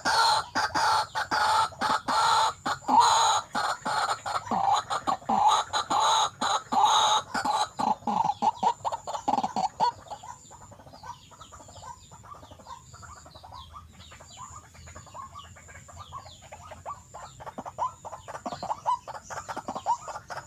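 White-breasted waterhen (ruak-ruak) calling in a rapid, clucking series of repeated notes, loud for about the first half and then fainter and quicker.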